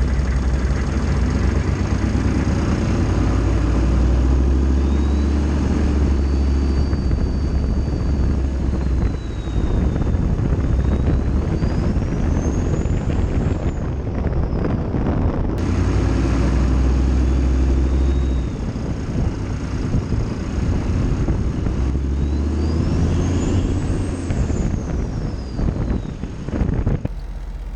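GM 6.5-litre turbo-diesel V8 pickup driven hard, the engine running loud and low with a turbo whistle that climbs and falls away twice. The sound cuts abruptly about halfway through, where one clip is spliced to another.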